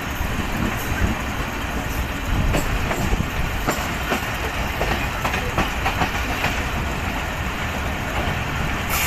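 A moving Pakistan Railways passenger train heard from the open doorway of one of its coaches: a steady rumble and rush with irregular clicks and knocks of the wheels over the rail joints.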